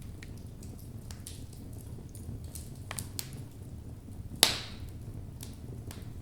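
Wood fire of burning logs in a fireplace crackling, with scattered sharp pops over a low steady rumble of the flames and one loud crack about four and a half seconds in.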